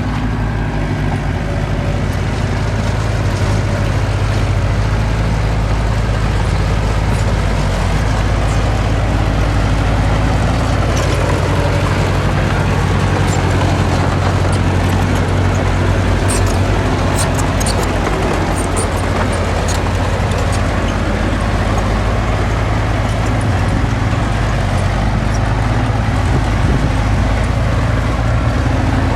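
Diesel engine of earthmoving machinery running steadily under load, with a few brief high clicks or squeaks about halfway through.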